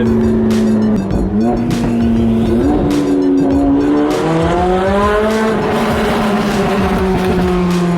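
High-performance sports car engines running at held revs, their note stepping up and down in pitch as the throttle changes. A second, lower engine note joins about four seconds in.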